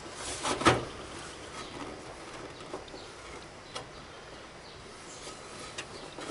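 Hard plastic knocking and clicking as a lawn tractor's grill piece is pressed into its hood for a test fit: a couple of sharp knocks in the first second, then a few faint scattered clicks over a low hiss.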